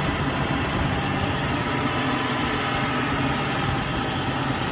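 2000 Jeep Cherokee XJ engine idling steadily.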